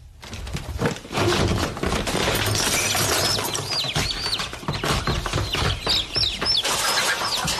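Birds, fowl by the sound of them, break into a sudden loud commotion: many short falling squawks over a dense rustling, fluttering noise.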